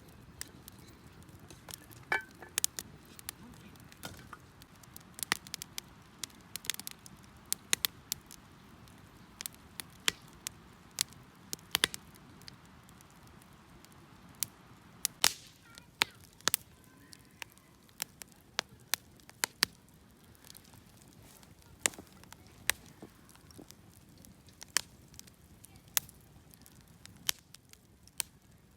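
Wood fire crackling: irregular sharp pops and snaps over a faint low hiss.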